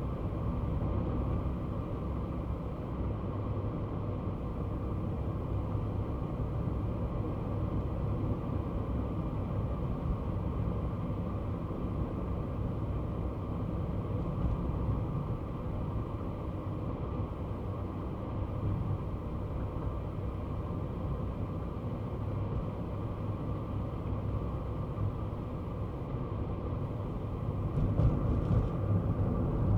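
Kei car driving: a steady low engine and road rumble, growing louder near the end.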